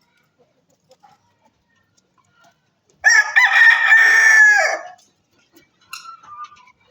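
A rooster crowing once, a single crow of about two seconds starting about three seconds in, its last note dropping in pitch. A few faint short calls follow near the end.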